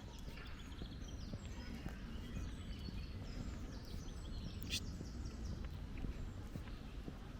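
Small birds singing: a quick run of short falling chirps through the first part, then a sharp high note a little past the middle, over a low steady rumble.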